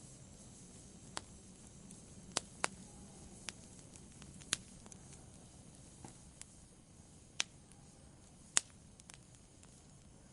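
Campfire burning, with scattered sharp wood crackles and pops, about ten of them, at irregular intervals over a soft low rush from the fire.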